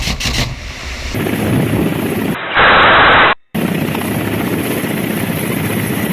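Attack helicopter rotor and engine noise, steady and loud, in several hard-cut segments. Near the middle a dense burst of noise lasts about a second.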